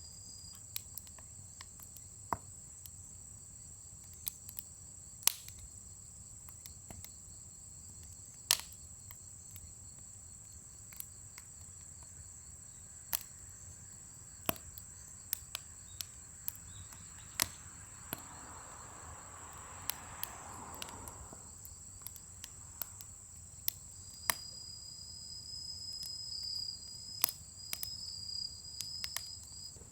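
Firewood crackling in a large fire pit, with sharp irregular pops, over the steady chirring of crickets. A soft rush of noise swells and fades about twenty seconds in.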